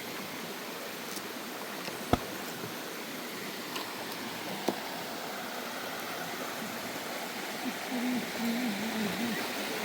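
Steady rushing outdoor noise, broken by a few sharp clicks or knocks, the loudest about two seconds in. Near the end comes a short wavering low voice-like sound.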